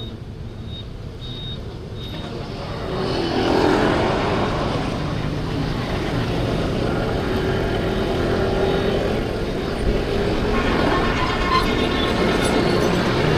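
Road traffic heard from a moving motorbike: engines and road noise, growing louder about three seconds in and then staying loud and steady.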